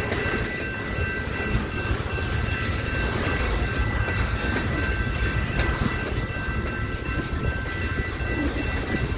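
Train rolling past: a steady low rumble of wheels on rail with faint clicking, and steady high-pitched tones held over it throughout.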